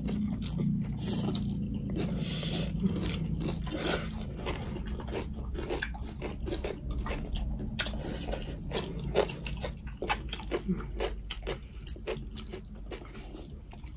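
People chewing and crunching food by mouth, a run of irregular wet clicks and crackles.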